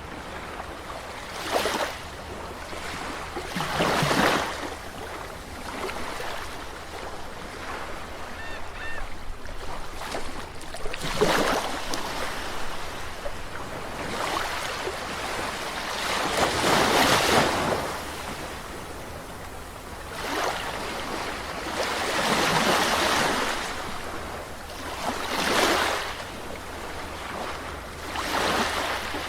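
Sea waves breaking and washing onto a shore, with a surge every few seconds at uneven intervals over a steady hiss of surf.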